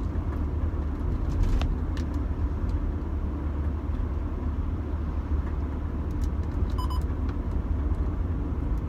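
Steady low engine and road drone inside a Rover 25's cabin while driving, with a few faint clicks and a short electronic beep from the stereo's buttons about seven seconds in.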